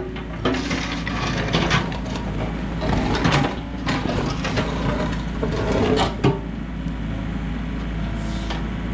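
Komatsu excavator's diesel engine running steadily, with scattered knocks and scrapes as the bucket breaks up and moves slabs of old concrete.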